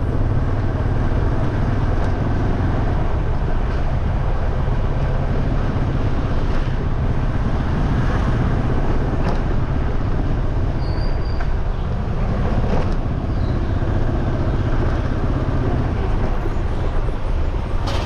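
Steady rumble of a motorcycle ride through traffic: engine and road noise under heavy wind on the microphone.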